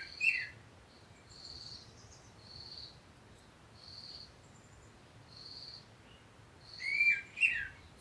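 Birds calling: a short, high single note repeats about every second and a half, and a louder call of two gliding notes comes at the start and again about seven seconds in.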